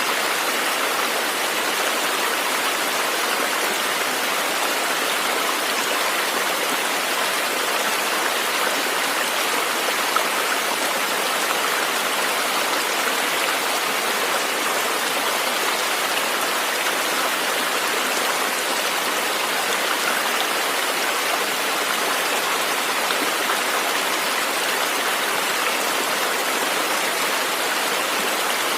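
River water running, a steady rushing and splashing without pause.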